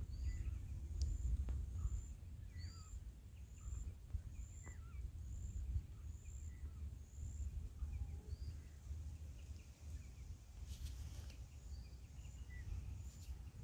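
Outdoor ambience: a low rumble of wind on the microphone with small birds chirping. One high, thin note repeats about every two-thirds of a second through the first half, with fainter scattered chirps and a few faint clicks near the end.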